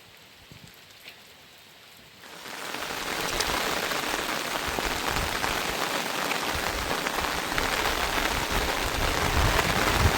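Heavy rain falling steadily as a dense, even hiss, which sets in abruptly a couple of seconds in after a quiet start.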